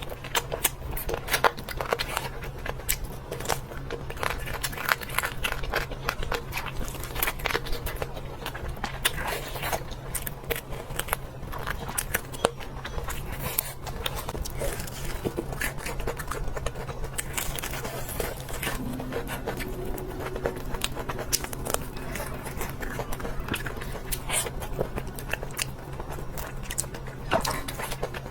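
Close-miked eating: bites into crisp food and chewing, with many small crunches and clicks throughout, over a steady low hum.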